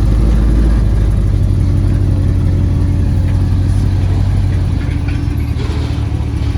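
A car engine running with a loud, steady low rumble that eases off a little about five seconds in.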